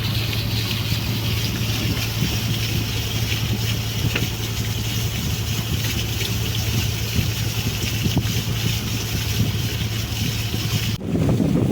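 Boat engine running with a steady drone. Near the end it cuts abruptly to a louder, rushing noise of wind on the microphone with water.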